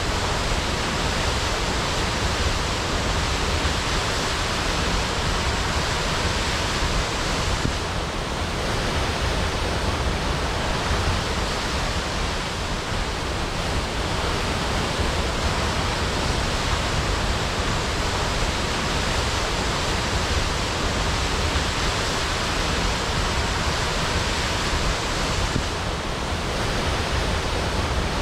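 Waterfall crashing: a steady, unbroken rush of falling water.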